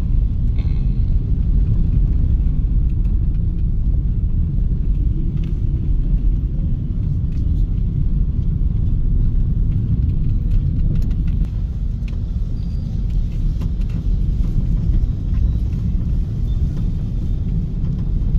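Car driving along a road: a steady low rumble of engine and tyre noise, heard from inside the cabin.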